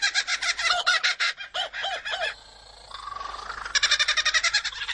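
Superb lyrebird singing a mimicked kookaburra-style laughing chatter of rapid repeated notes. The chatter drops to a quieter trill a little past two seconds in, then comes back loud about a second later.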